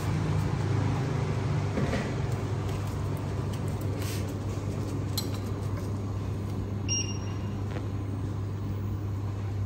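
Steady low hum with a few faint, irregular knocks of a cleaver on a wooden cutting board as sweet potato leaves are cut.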